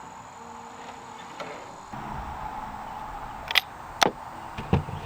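Sharp knocks and clicks from wooden boards being handled during woodworking: two sharp ones about three and a half and four seconds in, then a couple of duller thumps near the end.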